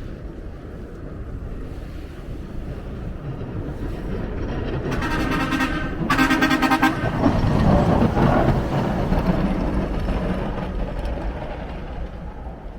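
Street traffic with a vehicle horn honking twice, each blast about a second long, about five and six seconds in. A vehicle then passes close, its rumble building and fading.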